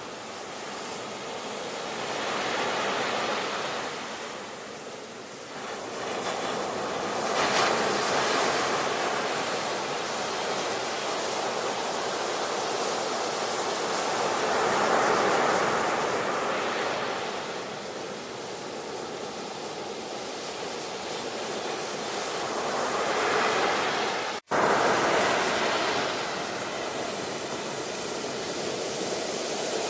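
Ocean surf: waves breaking and washing ashore, swelling and easing every several seconds. The sound cuts out for an instant about three-quarters of the way through.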